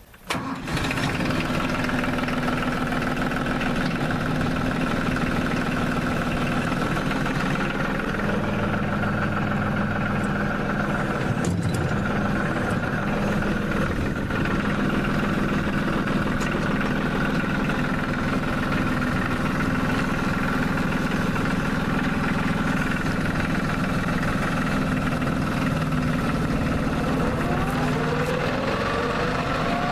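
LS G3033 compact tractor's diesel engine starting up, catching about half a second in and then idling steadily. A rising tone comes in near the end.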